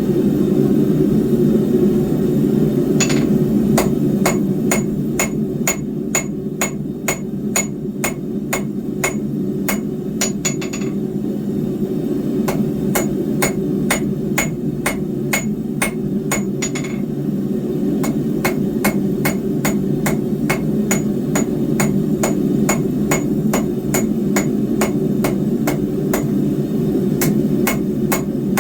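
Hand hammer striking hot 10 mm square steel bar on an anvil, starting about three seconds in and going on at about three regular blows a second, each with a bright ring. Under it runs a steady low roar from the forge.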